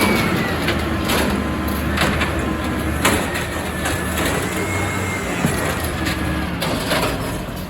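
Refuse truck engine running, with a whine that rises and falls slowly in pitch and several sharp knocks and rattles.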